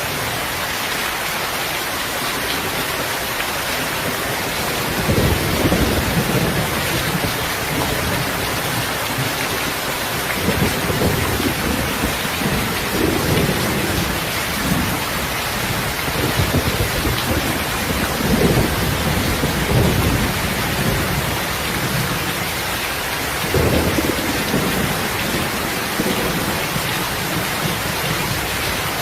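Steady rain hissing, with low rolls of thunder rumbling several times: one about five seconds in, a longer run through the middle, and another near the end.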